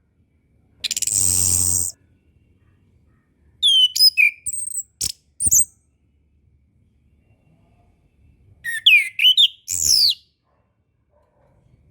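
Orange-headed thrush singing: short, separate phrases of high sweeping whistles and rapid chirps. About a second in comes a harsh buzzing note, and two whistled phrases follow, around four and nine seconds in.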